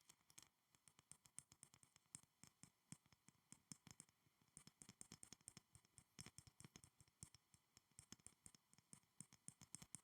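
Quick, light fingernail tapping and clicking on school supplies: a dense run of soft, sharp taps, several a second, played quietly and close.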